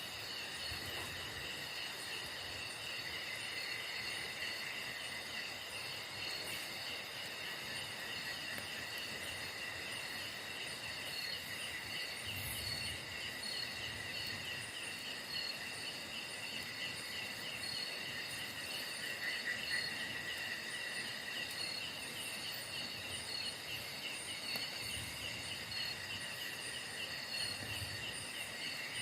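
Chorus of night insects, crickets among them: several steady, overlapping trills at different pitches, one high trill pulsing in an even rhythm.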